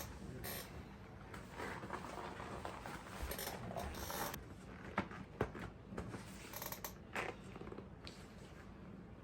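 Handling noises of work on a bike: irregular scraping and rustling, with two sharp clicks a little under half a second apart about five seconds in, over a faint steady hum.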